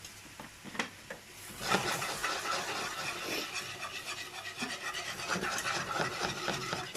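A whisk scraping and rattling steadily in a saucepan, beating milk into a cooked butter-and-flour roux to make a béchamel. It starts about a second and a half in, after a few light knocks.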